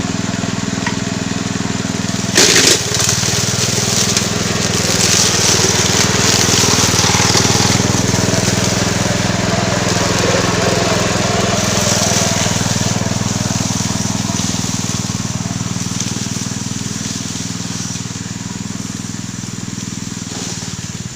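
Small engine of a homemade push-type grass cutter running steadily, with a sharp crack about two and a half seconds in. From about four seconds a louder rough rasping joins it for several seconds as the blade cuts through grass and brush, and the sound fades slowly toward the end.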